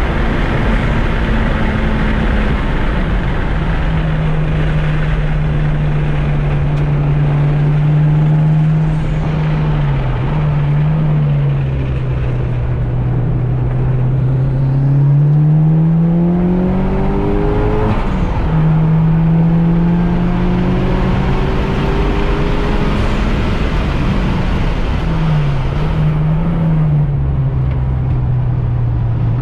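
Mitsubishi Lancer Evolution IX RS's turbocharged four-cylinder engine, freshly rebuilt, running hard on track, its revs rising and falling through the gears. A long climb in pitch ends in a sudden drop at an upshift about eighteen seconds in, and the pitch wavers briefly twice around the corners.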